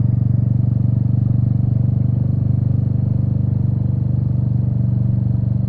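Royal Enfield Meteor 350's single-cylinder engine running steadily while riding, a low, even pulsing note that holds constant throughout.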